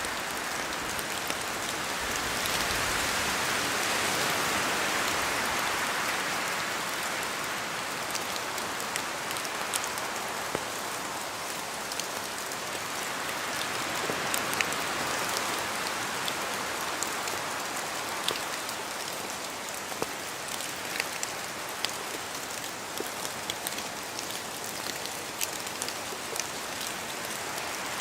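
Steady rain in a forest, with scattered sharp drips of raindrops falling from the trees. The hiss swells twice, a gust of wind through the canopy.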